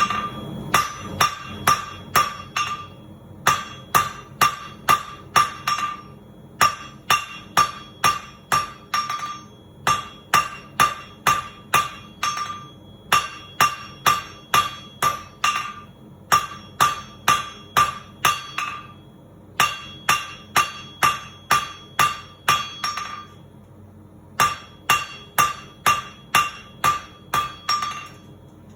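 Hand hammer drawing out hot steel on an anvil. The blows come about three a second, each with a bright metallic ring, in runs of a few seconds separated by brief pauses.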